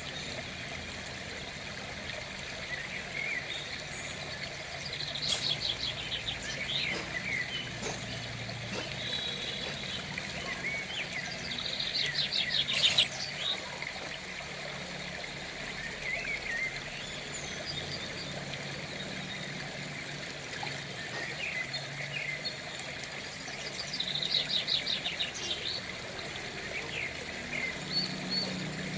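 Birds chirping over a steady background of outdoor noise, with a fast trill of one repeated high note coming three times.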